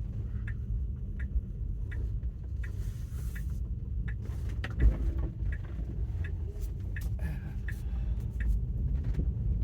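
Low, steady cabin rumble of a car driving slowly, with a turn signal ticking about twice a second. There is a single thump about five seconds in.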